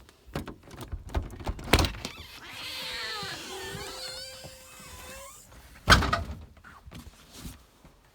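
Several knocks and thumps, then a domestic cat's long, wavering meow lasting about three seconds, then one loud thump.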